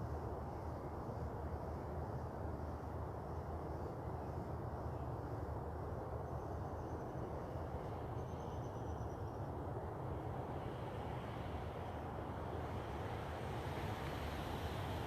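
Steady outdoor background noise with a low rumble, with faint short high trills about six and eight seconds in.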